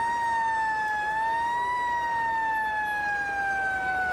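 An emergency vehicle's siren wailing: one steady tone near its peak pitch, dipping and rising again about a second in, then slowly falling in pitch.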